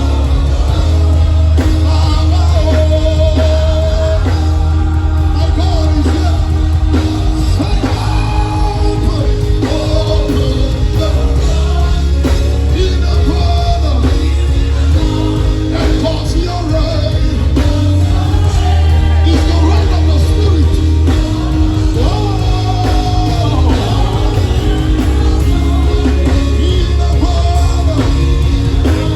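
Live gospel worship music: a band with heavy, steady bass plays while a lead vocalist sings.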